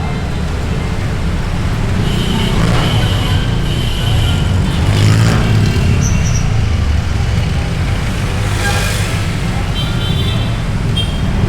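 Motorbike riding in dense city traffic: a steady low rumble of engine and road noise, with the other vehicles all around. Short horn toots come from the traffic, and there is a brief hiss about nine seconds in.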